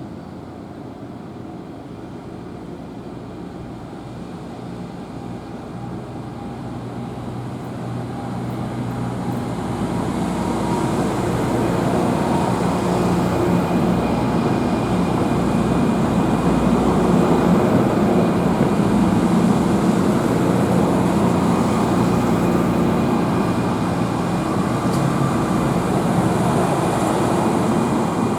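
NJ Transit commuter train approaching and running through the station, its rumble and hum growing louder over several seconds, then holding steady.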